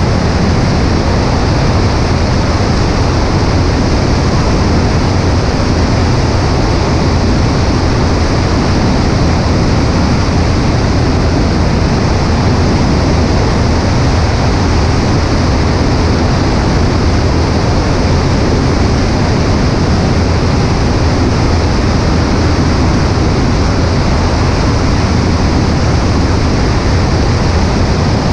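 Steady in-flight drone of a Cessna 140A light aircraft: the engine and propeller under rushing airflow, with heavy wind noise on a wing-mounted microphone. The sound stays constant, with no change in power.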